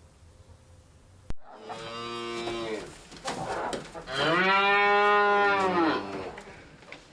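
A sharp click about a second in, then a cow mooing: a first moo, a brief shorter call, then a long, louder moo lasting about two seconds.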